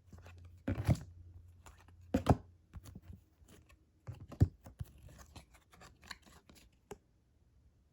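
Trading-card pack wrapper being torn open and crinkled, with cards handled in the hand: irregular crackles and a few louder sharp crinkles.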